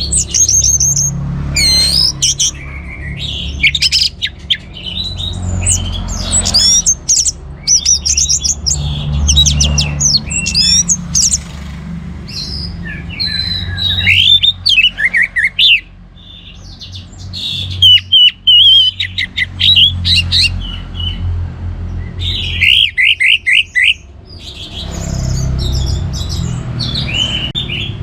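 Orange-headed thrush singing a loud, varied song of quick whistled sweeps and trills, phrase after phrase with short pauses, over a low background rumble.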